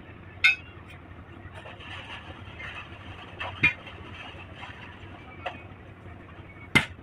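Metal tools clanking against metal during truck tyre work: about four sharp, ringing clinks, the loudest near the end, over a steady low hum.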